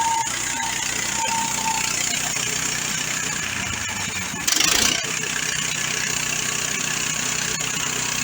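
Bandsaw mill's gas engine running steadily as the band blade cuts through a slab, the carriage cranked through too fast. A brief louder surge comes about four and a half seconds in.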